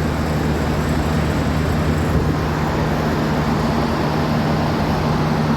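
A 30-ton Midea rooftop air-conditioning unit running with its newly replaced compressor: a steady hum under an even rush of air.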